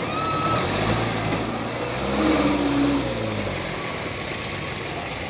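Heavy truck engine running under load over road noise; its pitch rises and then falls a little past the middle.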